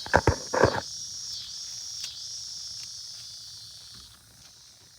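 Outdoor insect chorus: a steady high-pitched buzz that swells and fades in a slow repeating pattern. A few loud knocks or rustles come in the first second.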